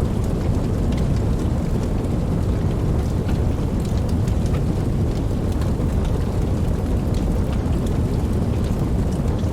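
Steady rain: an even rushing noise, heaviest in the low range, with scattered separate drops ticking through it.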